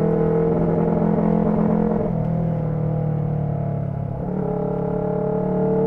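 Motorcycle engine running under way, its note sagging about two seconds in and picking up again a little after four seconds.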